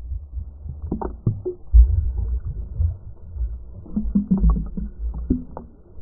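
Muffled water sloshing and handling knocks picked up through a GoPro's waterproof housing: a heavy low rumble with scattered knocks and nothing above a dull, muffled range.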